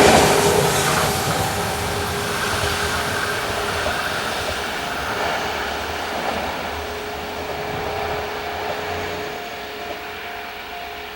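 Train moving away after passing close by, its running noise fading steadily, with a faint steady whine.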